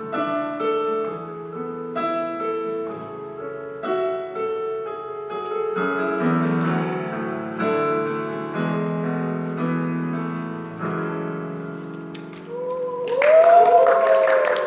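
Piano playing a slow chordal interlude, a new chord about every one to two seconds. Near the end a loud voice breaks in over it with a bending pitch.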